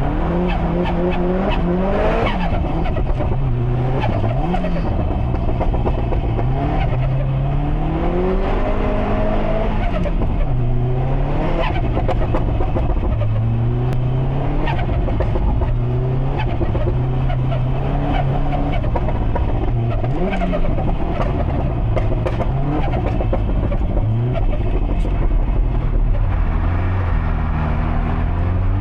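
Built Subaru Impreza STI's EJ257 turbocharged flat-four driven hard, its engine note rising and falling again and again as it pulls through the revs and lifts off. Sharp pops from the anti-lag system are scattered through the run.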